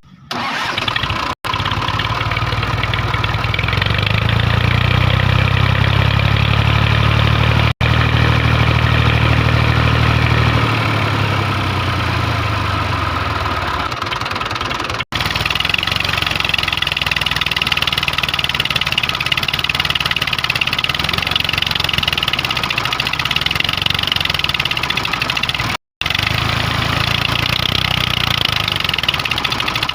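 Engine of a homemade mini tractor running steadily; its low drone swells a few seconds in and eases off again, with brief sudden dropouts a few times.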